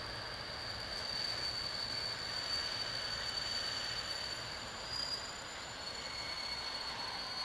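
Approaching train, heard at a distance, with a steady high-pitched squeal running over a low rumble.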